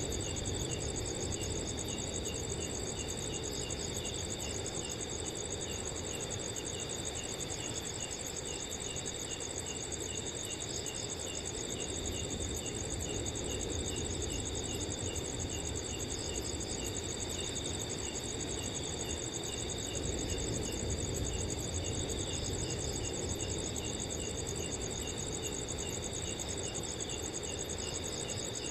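Several crickets chirping and trilling steadily in overlapping layers, one with regular chirps about twice a second, over a low, even rush of wind.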